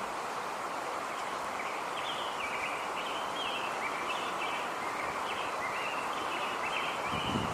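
Steady outdoor background noise, with small birds chirping repeatedly and high in pitch from about two seconds in.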